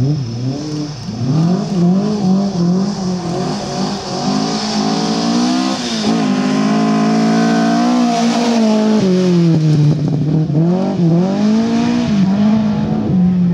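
Rally car engine driven hard on a gravel special stage, its pitch climbing and dropping again and again as it accelerates through the gears and lifts off, with sharp drops about six and nine seconds in.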